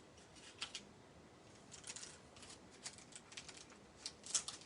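Faint, scattered light clicks and rustles of small craft embellishments and paper being handled, a few irregular taps with a small cluster near the end.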